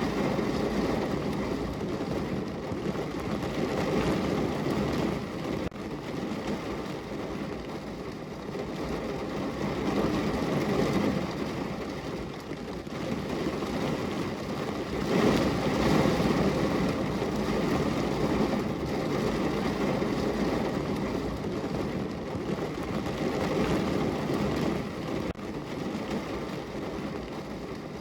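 Heavy rain falling on a car's roof and windows, heard from inside the car: a dense, steady patter that swells and eases, loudest about halfway through.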